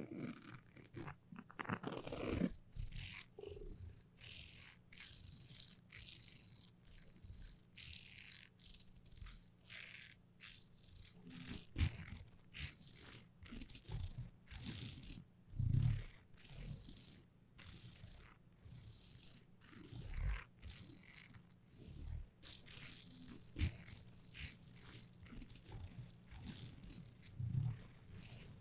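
Sticky ASMR sounds: a tacky surface pressed and pulled away again and again, each peel a short crackle, coming in quick irregular succession.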